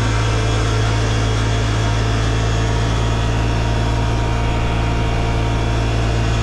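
Side-by-side UTV engine running at a steady, even speed, heard loud and close.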